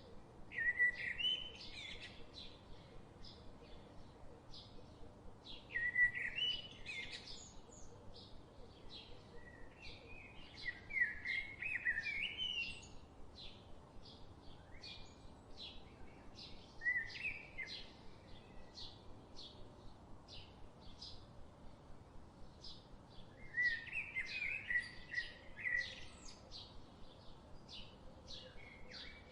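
Birds singing short warbling phrases every few seconds, over a steady high ticking about twice a second.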